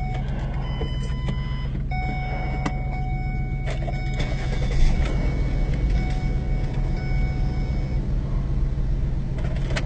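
Tow truck engine running steadily, a continuous low drone, with a few faint clicks and thin high tones over it.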